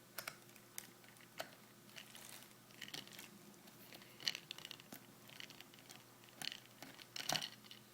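Faint scattered clicks and scrapes of a screwdriver working a screw out of an airsoft AK's gearbox, with louder scrapes about four and seven seconds in.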